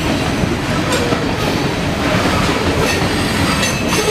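CSX coal train rolling past. Its cars give a steady rumble, with wheels clicking over the rail joints.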